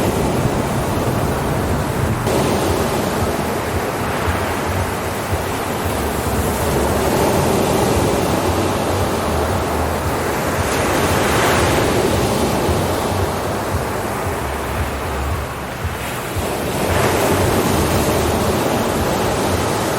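Ocean surf: waves breaking and washing in one after another, swelling about every five or six seconds over a steady rush of water.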